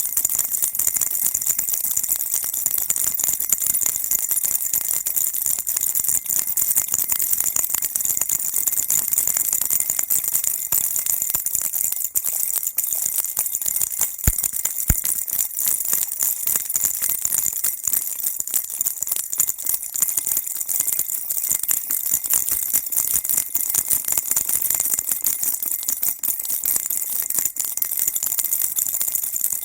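Baby rattle shaken continuously, a dense, fast, high jingling with no pauses, played as soothing white noise for a baby.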